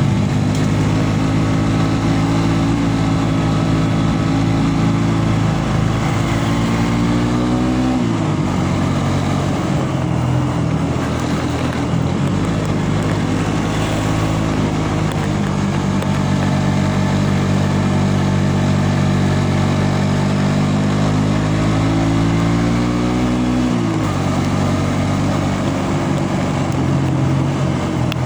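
A road vehicle's engine running continuously while driving. Its pitch climbs gradually and then drops sharply about eight seconds in and again about twenty-four seconds in, as it accelerates and shifts up a gear.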